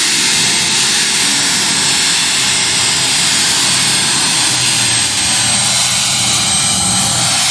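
John Deere 7720 pulling tractor's engine running loud and steady, with a thin high whine over the top.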